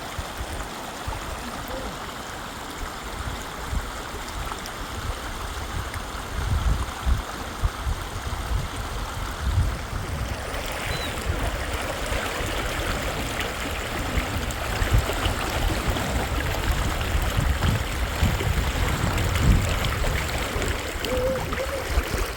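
Rushing river water, a steady noise that grows louder about halfway through, with irregular low rumbles underneath.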